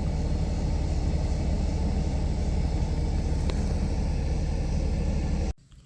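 Steady low rumble of a car driving, heard from inside the cabin. It cuts off abruptly near the end.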